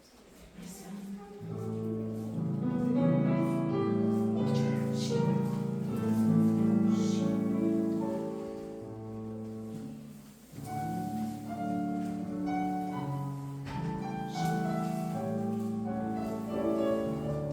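Classical piano music for a ballet class exercise. It starts about a second in, pauses briefly about ten seconds in, then goes on.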